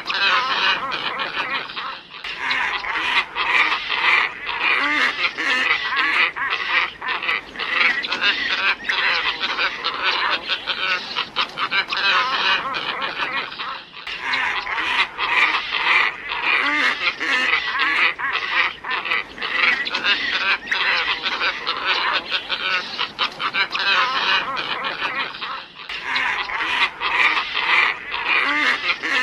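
A flock of glossy ibis calling continuously, many hoarse honking calls overlapping, played as a lure recording. The recording loops about every twelve seconds, with a brief break between repeats.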